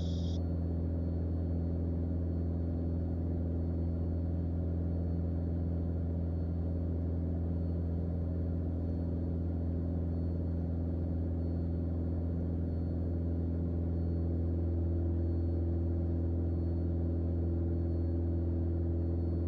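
Cockpit drone of a Mooney M20J's four-cylinder Lycoming engine and propeller at steady climb power, an even low hum that holds unchanged throughout.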